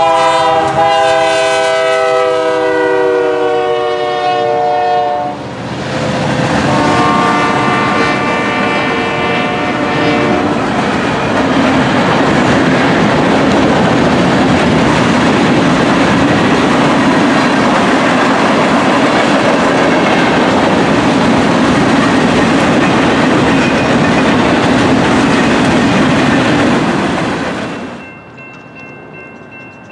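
Diesel freight locomotive's multi-note air horn sounds two long blasts, the first dipping slightly in pitch as it ends. This is followed by the steady rumble of the locomotives and the clatter of tank cars rolling past on the rails, which stops abruptly about two seconds before the end.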